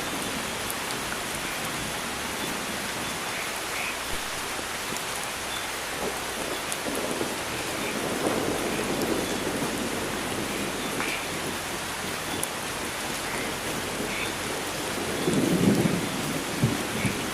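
Steady heavy rainstorm in a rainforest. It swells twice into a louder low rumble of thunder, once in the middle and again near the end.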